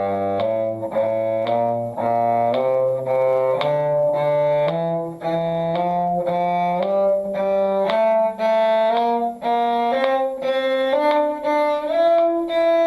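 Bowed string instruments playing an F major scale in eighth notes, with the notes slurred in pairs, rising in pitch.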